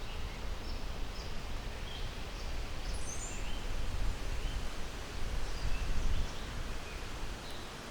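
Birds chirping, short calls scattered throughout, over a steady low rumble of outdoor background noise.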